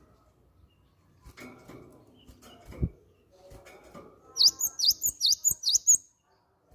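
Cinereous tit (gelatik batu) calling: a quick run of sharp, high, repeated notes about two-thirds in, stopping abruptly, after a few seconds of faint low sounds.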